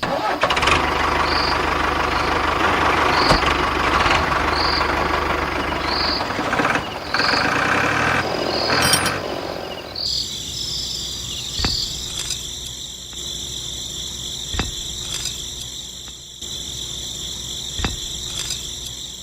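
Small electric motor of a miniature flour-mill model running: a rough, rasping sound for about ten seconds, then a steady high whine with a few sharp clicks.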